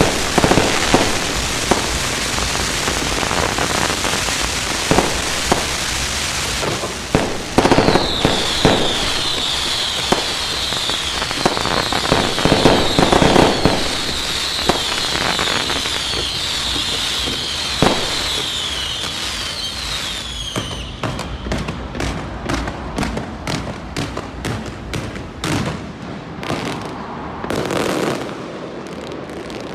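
Many fireworks going off at once: dense crackling with repeated sharp bangs. A high wavering whistle runs through the middle stretch, and toward the end the bangs come as separate sharp pops.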